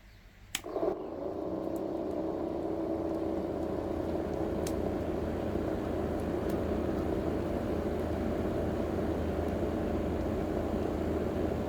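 A switch clicks, then a small battery-powered electric motor spins up and runs steadily with a whirring hum, driving the fan of a homemade cardboard air-conditioner model.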